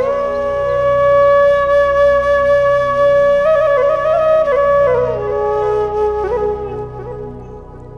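Background music: a flute plays a slow melody over a low, softly pulsing accompaniment. It holds one long note for the first few seconds, then steps down through a few notes and fades out near the end.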